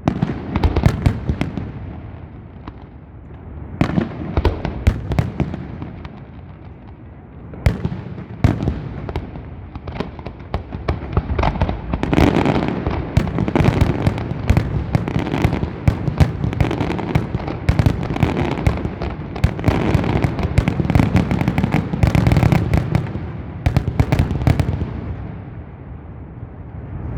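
Aerial fireworks display: volleys of sharp bangs and crackling, building after about ten seconds into a dense, continuous barrage with deep booms, then easing off near the end.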